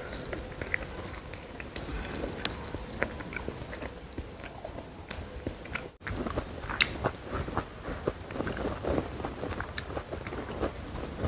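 Close-miked eating: biting and chewing with many small crisp crunches and wet clicks. The sound drops out for a moment about halfway, then carries on.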